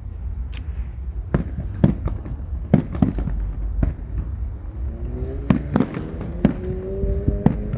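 Aerial fireworks going off in irregular sharp bangs over a steady low rumble. About five seconds in, a rising whistle joins them.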